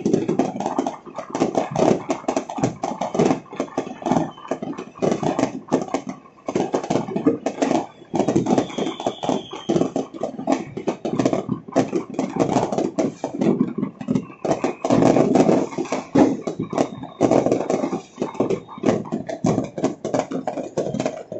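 Many fireworks and firecrackers going off together across a city, making a continuous dense crackle of rapid bangs. A faint high whistle comes through a couple of times.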